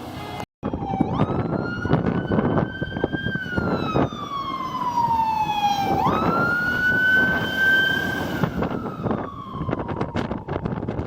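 Emergency vehicle siren wailing: the pitch rises quickly, holds high, then sinks slowly, a cycle of about five seconds, repeated twice. Beneath it run street traffic rumble and wind buffeting the microphone.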